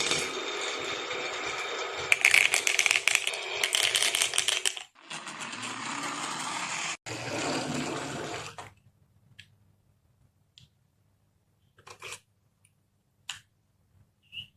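Many marbles rolling and clattering down a marble run track in a dense rattle that breaks off briefly twice, then dies away after about eight seconds to a few scattered single clicks.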